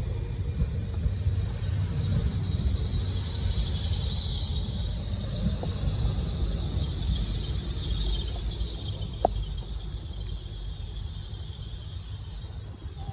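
Hitachi Class 800 bi-mode train rumbling slowly as it arrives at the platform. A steady high whine swells through the middle and fades, with a single sharp click about nine seconds in.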